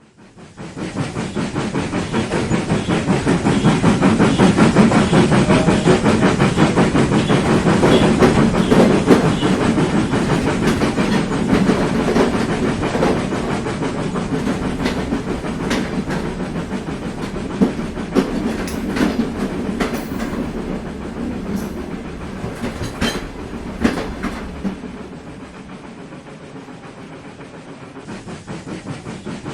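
Train running along the track with a fast, steady clatter of wheels over rail joints. It fades in at the start, is loudest a few seconds in, and eases off near the end, with a few sharper clicks past the middle.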